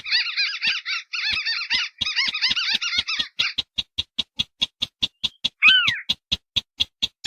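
Crakes calling on a bird-lure recording, a mix of white-browed crake and a 'Sintar beker' crake: dense rapid chattering trills for the first three and a half seconds, then a fast run of short sharp notes at about five a second, with one drawn-out descending call near the six-second mark.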